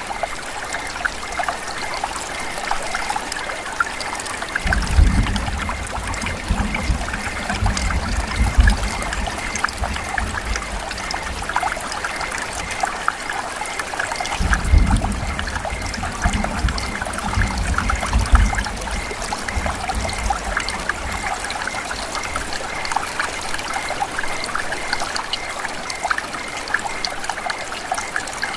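Steady rain falling and dripping, with many small drops ticking. A low rumble swells twice, about five and fifteen seconds in.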